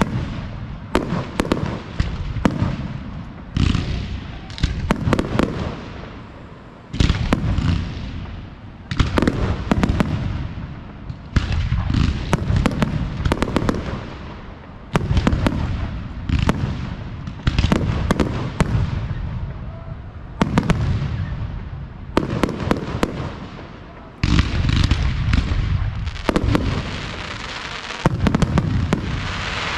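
Professional fireworks display: shell bursts and salutes going off in close volleys, a new cluster of sharp booming bangs every second or two. A dense crackling hiss comes near the end.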